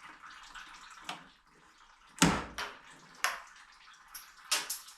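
A part being pried free during car radiator removal: a loud sharp knock about two seconds in, another about a second later, and a quick pair of knocks near the end.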